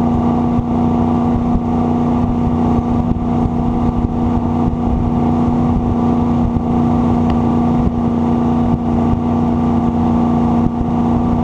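Jet boat engine running at a steady throttle, a constant loud drone that holds the same pitch throughout.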